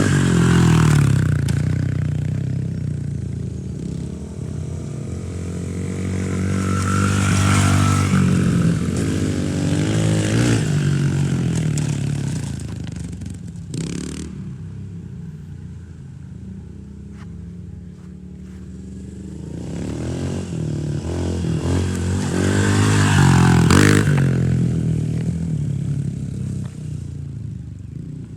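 Dirt bike engine running and revving, growing loud and fading away several times as the bike rides near and then away, loudest about a second in, again around seven to ten seconds, and near twenty-four seconds.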